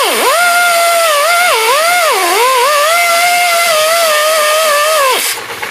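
Handheld electric power tool whining at high speed, its pitch dipping sharply a few times as it bogs under load against the transom. It winds down and stops about five seconds in.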